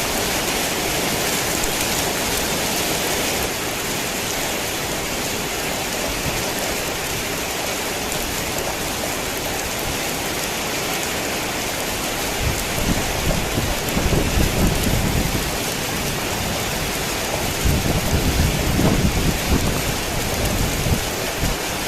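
Heavy rain pouring steadily, with low rumbles of thunder rolling in about halfway through and again near the end.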